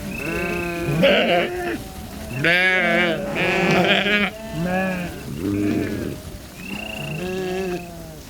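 A flock of sheep bleating, about seven calls one after another and partly overlapping, some of them with a quavering tremble.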